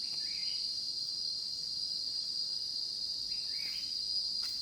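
Steady, high-pitched drone of forest insects, with two short rising chirps, one near the start and one about three and a half seconds in.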